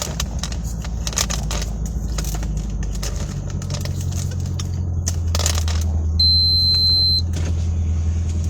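Car engine idling just after starting, a steady low hum, with scattered small clicks and knocks. About six seconds in, a single high electronic beep sounds for about a second.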